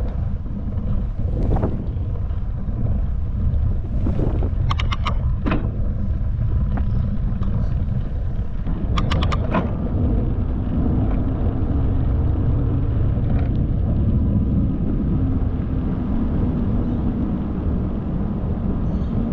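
Wind buffeting the microphone of a moving bicycle, a steady low rumble, with two clusters of sharp clicks and rattles about 5 and 9 seconds in.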